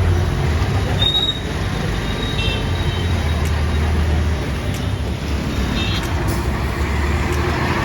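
Busy road traffic with a bus engine running in a low, steady rumble, and a brief high squeal about a second in.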